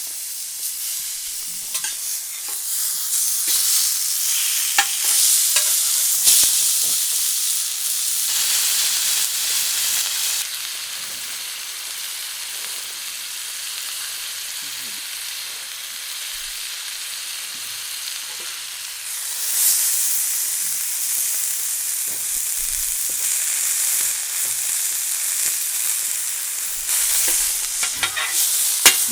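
Beef sizzling in a hot pan, a dense frying hiss with scattered small pops of spitting fat. It starts suddenly and swells louder twice.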